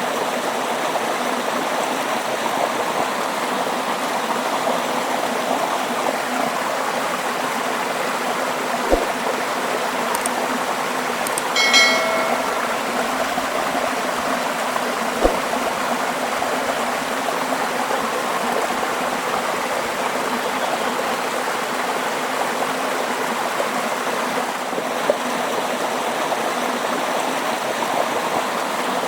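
Falling water of Hundru Falls on the Subarnarekha River, rushing as a steady, even roar. A short pitched sound cuts in briefly about halfway through.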